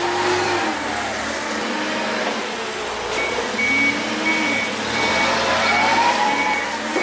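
A vehicle reversing alarm, beeping about twice a second from about three seconds in, over a machine whine that rises and falls in pitch and a steady rumble of running machinery.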